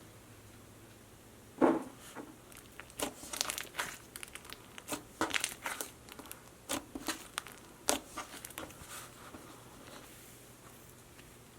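Irregular crackling and crinkling from something being handled close up: a string of sharp clicks and crackles, the loudest about a second and a half in, dying away after about nine seconds.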